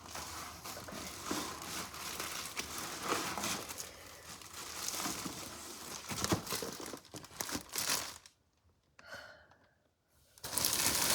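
Packaging crinkling and tearing as a large parcel is unwrapped by hand, dense rustling with small clicks and crackles. The rustling stops for about two seconds near the end, then starts up again louder.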